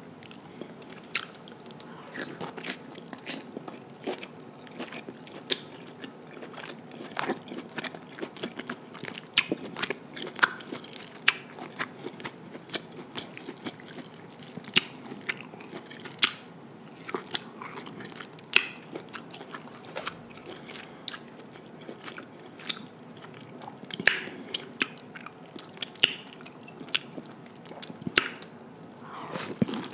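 Close-miked biting and chewing of king crab leg meat, with many irregular short clicks.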